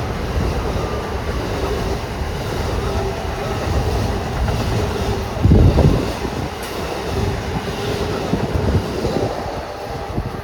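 Train rolling past close by, a steady rumble of wheels on the rails with a louder surge about five and a half seconds in.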